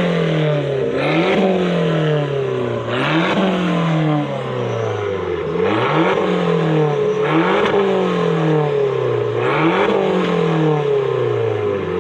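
A car engine being revved repeatedly while parked: about six sharp blips that rise quickly in pitch and fall back slowly toward idle, with a loud exhaust rasp at each peak.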